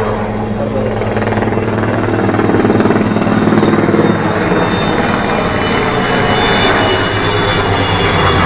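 Helicopter flying close, its rotor chopping rapidly and steadily, growing a little louder about two seconds in.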